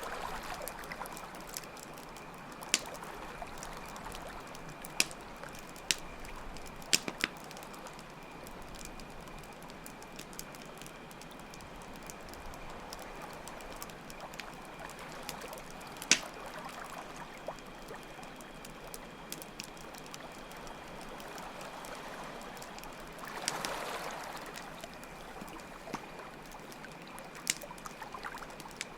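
Layered campfire ambience: a wood fire crackling with scattered sharp pops, water flowing steadily, and a continuous high cricket trill.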